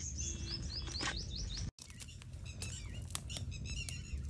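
Small birds chirping: a quick run of rising chirps in the first second, then scattered chirps and short trills, over a low steady background rumble. The sound drops out for an instant a little under two seconds in.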